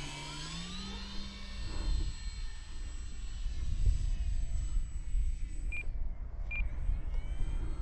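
Electric motor and propeller of an E-flite Valiant 1.3M RC plane whining in flight, rising in pitch over the first second as the throttle is opened, then holding steady. A few short high beeps come near the end.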